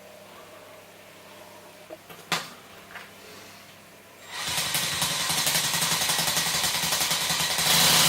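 A homemade RC-truck V8 sound generator, a motor-spun disc with eight notches cut in its rim, starts up about four seconds in with a rapid, buzzing rattle. It grows louder near the end, a sound its builder finds horrible and too slow to pass for a V8.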